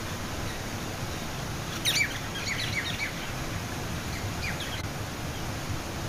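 A songbird chirping in a quick run of short, high notes about two seconds in, with a couple more chirps a second and a half later, over the steady rush of water from a small waterfall.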